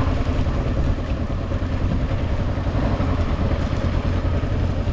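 Honda CB500X motorcycle on the move, its parallel-twin engine running steadily under a constant rushing noise.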